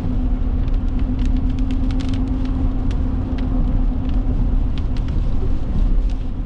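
Road noise and a steady hum inside a moving car. Irregular sharp ticks sound throughout.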